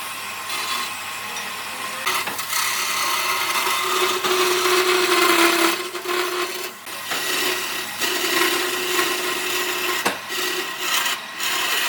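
A power tool working wood, its motor running steadily under load with a grinding, abrasive noise, easing off briefly a few times.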